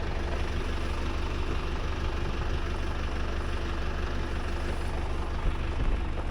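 Tractor engine idling steadily with a deep, even hum.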